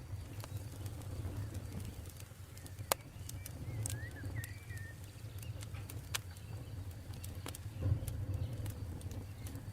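Campfire burning, with a low steady rumble and scattered sharp crackles and pops, the loudest about three and eight seconds in. A bird gives a few short chirps about four seconds in.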